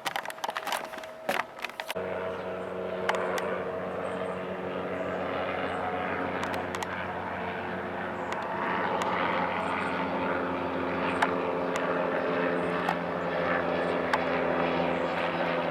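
A few knocks, then about two seconds in a machine's motor starts up abruptly and runs with a steady low hum.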